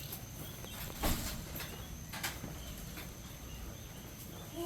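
Faint high peeping of young guinea fowl, with a few knocks and handling bumps over a low rumble; the loudest knock comes about a second in.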